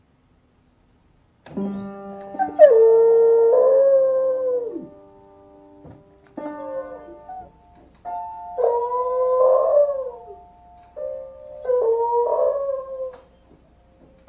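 A dog howling along to music: after about a second and a half of silence, three long howls that slide up and down in pitch over steady instrument notes.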